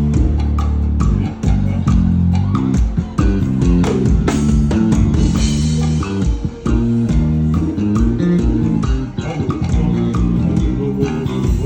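Electric bass guitar playing a busy line of plucked notes that change several times a second, with guitar alongside.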